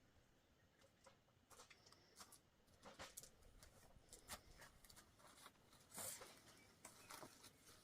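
Near silence with faint, scattered clicks and a brief rustle about six seconds in.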